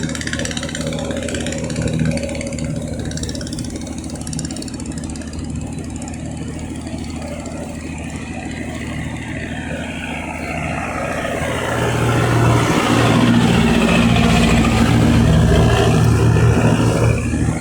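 Boat engine running steadily, growing louder about twelve seconds in and easing off again near the end.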